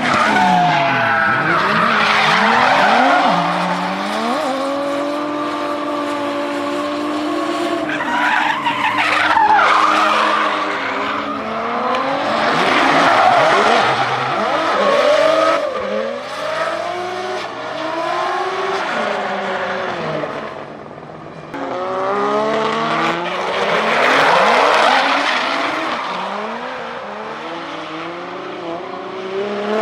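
Turbocharged drift cars sliding past on track, their engines revving up and down in pitch while their tyres squeal. Several cars pass in turn, with a brief lull about two-thirds of the way through.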